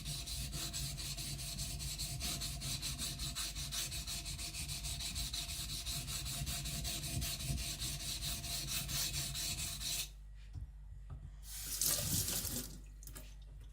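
Kiridashi blade rubbed back and forth on a wet whetstone in steady, rhythmic strokes, a wet gritty scraping that stops about ten seconds in. A short burst of hiss follows about two seconds later.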